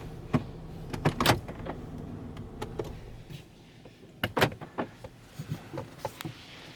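LaserWash 4000 touchless automatic car wash running, heard from inside the car: a low steady hum that fades out about halfway through, with scattered sharp clicks and knocks.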